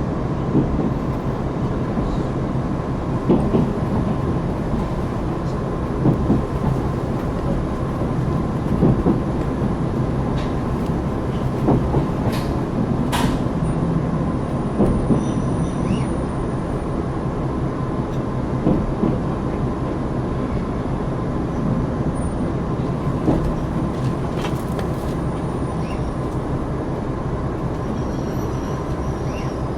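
JR Hokkaido KiHa 261 series diesel railcar running, heard from inside the passenger car: a steady low engine and running drone with occasional short knocks from the wheels on the track.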